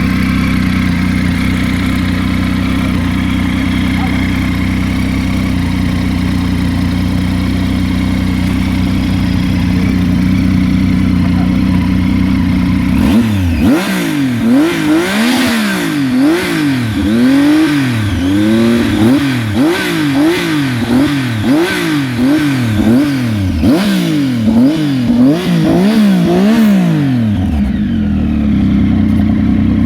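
Triumph Tiger 800 XC's three-cylinder engine breathing through an aftermarket Arrow exhaust. It idles steadily, then from about halfway it is revved in a run of quick throttle blips, roughly one a second, before settling back to idle near the end.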